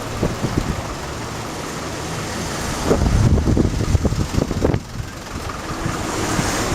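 Typhoon wind buffeting the microphone in gusts, heaviest around the middle, over a steady rushing background noise.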